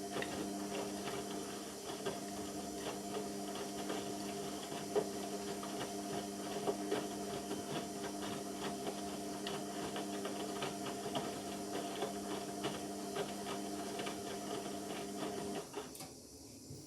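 Indesit washing machine running mid-cycle: a steady, fixed-pitch electrical hum with many small clicks and rattles over it, which cuts off suddenly near the end.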